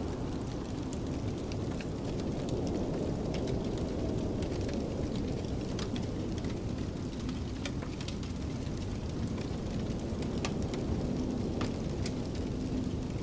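Wood fire crackling with scattered sharp pops over a steady low rumble of snowstorm wind, which rises and falls in a faint howl a few seconds in.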